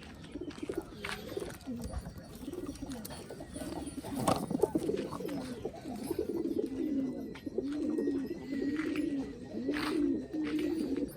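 Domestic pigeons cooing again and again, several calls overlapping and growing busier partway through, with a few sharp clicks and knocks among them.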